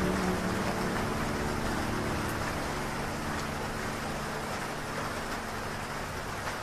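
Steady heavy rain, an even hiss that slowly grows quieter, with the last reverb-drenched notes of slowed piano and strings dying away in the first second.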